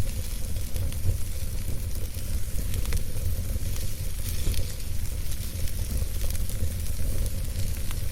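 Wood campfire burning, with a steady low rumble and hiss and scattered soft crackles.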